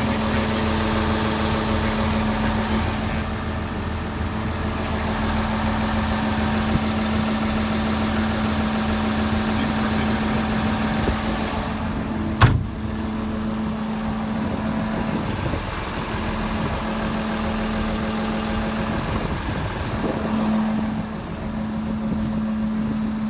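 Excavator diesel engine idling steadily with an even hum, and one sharp click about halfway through.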